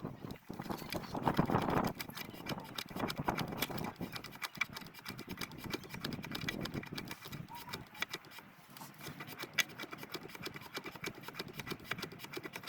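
Irregular clicking and knocking of plastic parts being handled as a new oil filter element is fitted back into its housing on a BMW 320d diesel engine, before the cap is screwed down.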